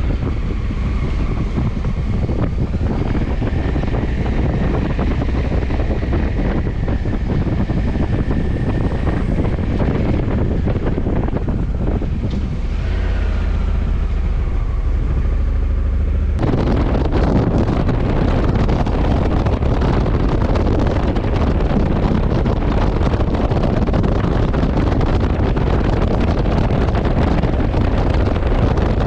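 Honda CRF1100 Africa Twin's parallel-twin engine running on the road, with heavy wind noise on the microphone. In the first half, faint engine tones rise and fall in pitch over a low rumble. A little past halfway, the sound changes suddenly to a denser, fuller rush of wind.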